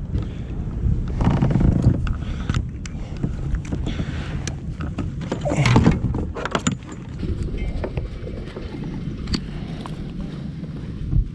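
Water sloshing and hull knocks on a fishing kayak, with two louder splashy swells, about a second in and again near six seconds, and scattered sharp clicks.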